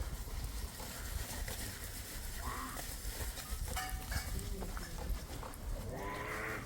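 A bleat from a goat or sheep of the flock: one short call about six seconds in, with a fainter one earlier. A steady low rumble runs underneath.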